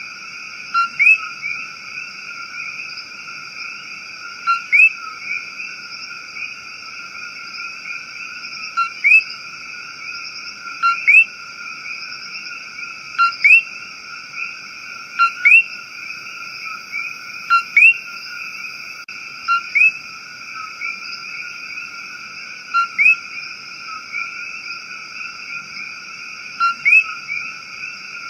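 Rainforest animal chorus: a steady, continuous high-pitched trilling chorus. Over it, a short call that falls in pitch repeats every two to four seconds, often twice in quick succession.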